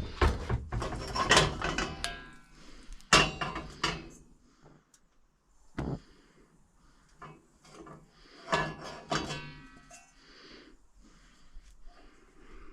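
Pots, pans and utensils being handled: irregular knocks and clatters in several clusters, some with a short metallic ring.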